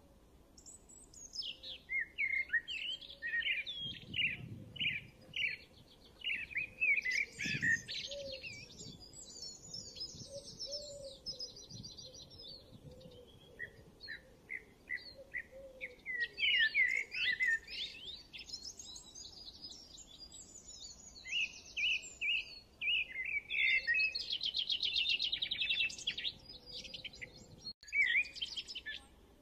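Songbirds chirping and singing in phrases of quick repeated chirps and fast trills, with short pauses between phrases.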